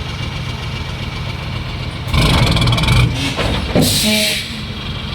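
Heavy vehicle's engine idling with a steady low rumble, turning louder and rougher about two seconds in, with a short hiss just before the four-second mark.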